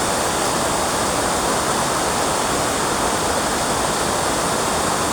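Steady, loud rushing noise with no breaks.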